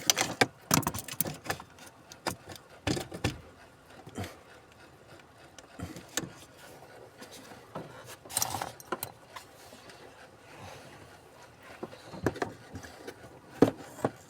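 Intermittent clicks, knocks and short metallic rattles of hand tools working at the plastic trim around a truck's gas pedal module, in clusters with quieter gaps between.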